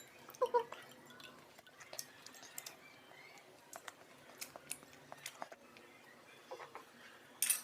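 Eating sounds: quiet chewing with scattered small clicks of a spoon or fork against a plate, over a meal of rice and canned sardines. A couple of louder clicks come near the end.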